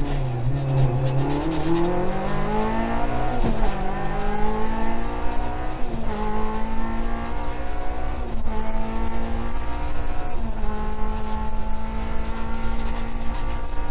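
Rally car engine heard from inside the cockpit, accelerating hard through the gears: the pitch climbs and drops back at each upshift, four times, then holds nearly steady near the end.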